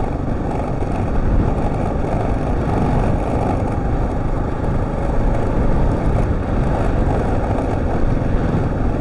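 Husqvarna TR650's single-cylinder engine running steadily under load as the motorcycle rides a deep sandy, corrugated dirt track, with a constant rush of wind and ride noise.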